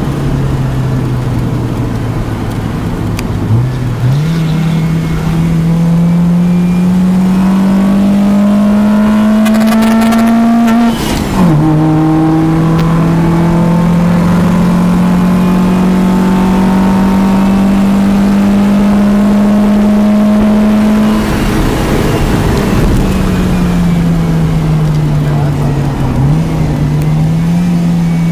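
Naturally aspirated, low-compression Honda D16 SOHC four-cylinder in a Civic, heard from inside the car under hard acceleration on track. The revs climb steadily and drop sharply at an upshift about eleven seconds in, then climb again. Near the end they fall away as the car slows, with a quick rise at a downshift.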